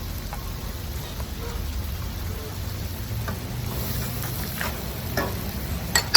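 Onion and ginger-garlic paste frying in butter in a pan: a low, steady sizzle with faint stirring. A sharp clink of a utensil against the pan comes near the end.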